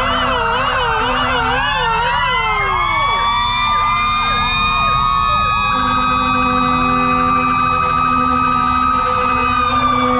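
Several emergency-vehicle sirens sounding at once: a fast yelp in the first two seconds, then slower wails that rise and fall and overlap, joined about six seconds in by a steady low horn-like tone.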